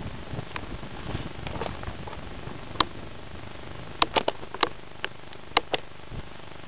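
Steady outdoor background hiss with a handful of short, sharp clicks: one on its own, then several bunched together about four seconds in, and a few more after.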